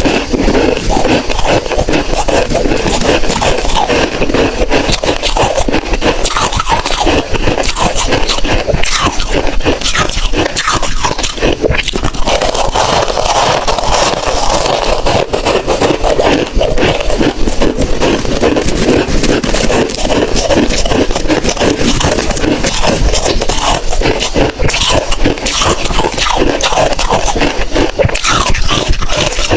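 Hard ice being bitten and crunched between teeth close to the microphone: a dense, unbroken run of cracking and crunching.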